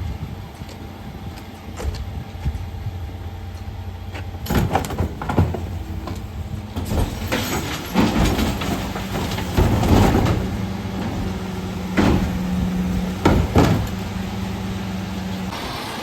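Mercedes Econic refuse truck running with a steady engine hum, with a run of loud bangs and clatters from about four seconds in as wheelie bins are lifted and emptied by the bin lifter. A second, higher steady hum joins about halfway through and stops just before the end.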